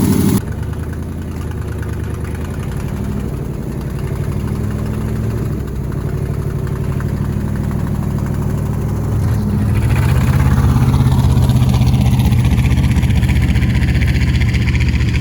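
Old Ford F-250 Highboy pickup's engine running, then working harder and louder from about ten seconds in as the truck is driven under load out of a snowbank.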